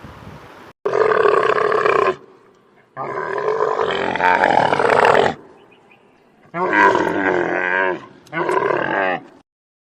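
Camel calling: four long, loud calls, the second the longest, with short pauses between them.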